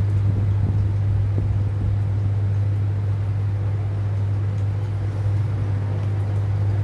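Steady low mechanical hum at an even level, with a faint hiss over it.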